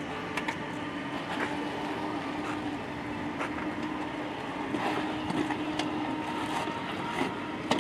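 A machine runs with a steady hum, with scattered light clicks and a sharper knock near the end.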